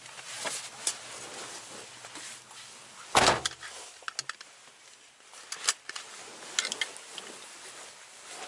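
A car door slams shut about three seconds in, followed by a few small clicks and rattles.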